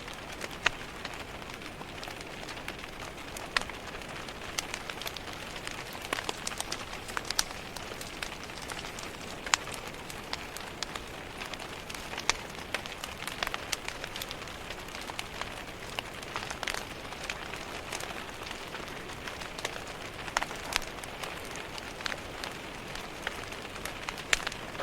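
Steady rain tapping against window glass, mixed with the irregular sharp pops and crackles of a fireplace fire.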